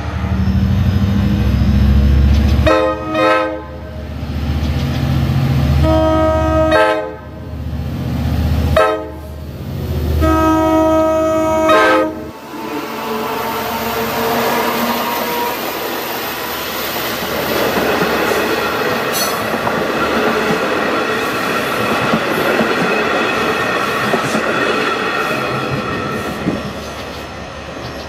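Long Island Rail Road diesel-hauled train passing close: its locomotive engine runs loud and low while the horn sounds the grade-crossing pattern of long, long, short, long. The passing cars follow with steady wheel-and-rail rolling noise and a faint whine.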